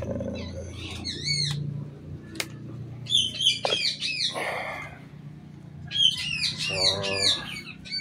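Small birds chirping in three bouts of quick, curved, high notes, with a lower call near the end.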